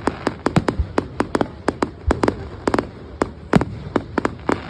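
Fireworks going off: a rapid, irregular string of sharp cracks and bangs, about five a second, with three deeper booms among them.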